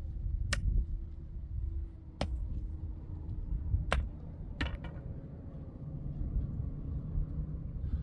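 A few sharp, irregularly spaced knocks, four in the first five seconds, over a low steady rumble.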